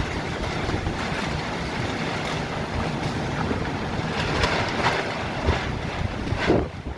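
Violent storm wind gusting hard and buffeting the microphone with a rushing roar, strongest about six and a half seconds in, then dropping off sharply near the end.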